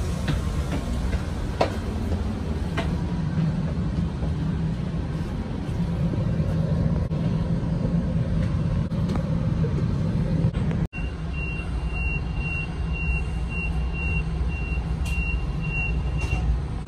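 Steady low rumble of a commuter train heard from inside a passenger car. After a cut about eleven seconds in, a high electronic beep repeats in short pulses, about two a second, stopping shortly before the end.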